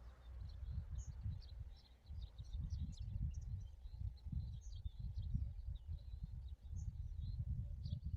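Small birds chirping in many short, high notes, several a second, over a low, uneven rumble.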